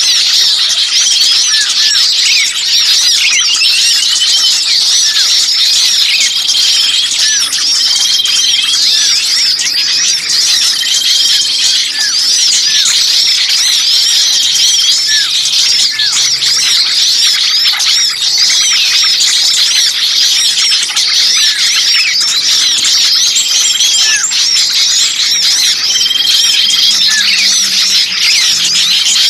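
Bird-trapping lure recording: a loud, dense, continuous chorus of many small songbirds chattering and squeaking in high-pitched calls, with short trills recurring every couple of seconds. The frantic calls imitate small birds in a noisy commotion around one caught and pinched (burcil ribut kejepit), a distress sound meant to draw other birds in.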